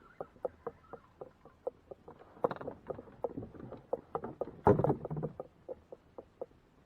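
Irregular small knocks and taps on a fishing kayak's hull, coming every fraction of a second, with a denser, louder stretch of knocking and rattling in the middle and one sharp knock just before the five-second mark.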